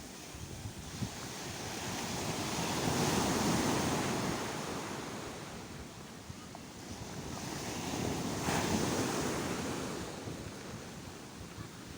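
Sea waves washing on the shore, two swells of surf rising and falling about five seconds apart, with some wind on the microphone.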